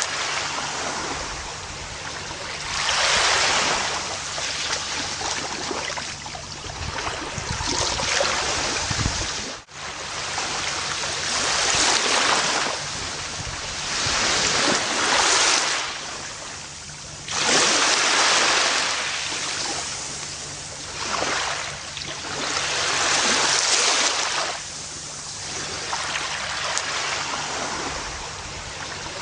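Gentle ocean waves washing onto a beach, the surf swelling and fading every three to five seconds. The sound briefly drops out about ten seconds in.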